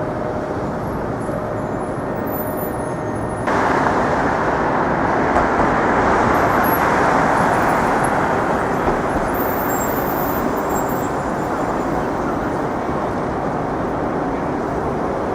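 City street traffic: a steady wash of passing vehicles. It jumps louder suddenly about three and a half seconds in, then swells and eases as traffic goes by.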